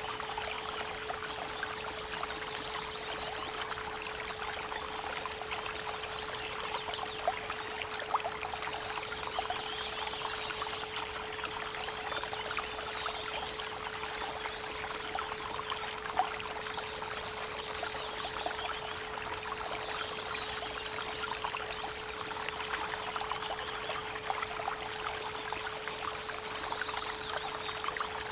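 Creek water trickling and splashing over a steady 432 Hz pure tone. Birds sing at intervals, with a short high trill that recurs about every thirteen seconds.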